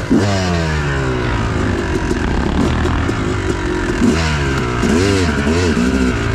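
Yamaha YZ250 two-stroke dirt bike engine revving while riding: the pitch falls away at first, then swells up and down repeatedly with the throttle in the second half.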